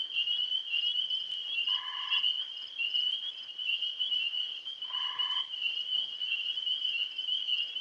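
Chorus of tree frogs calling steadily, a dense high-pitched mass of calls. Two short, lower-pitched calls stand out about two seconds and five seconds in.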